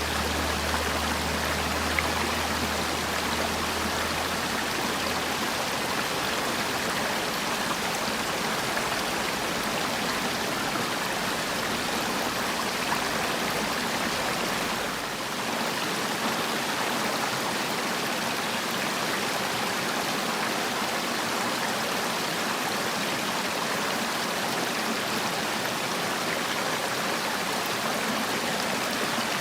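Mountain valley stream flowing steadily, a continuous rush of running water. Its level dips briefly about halfway through.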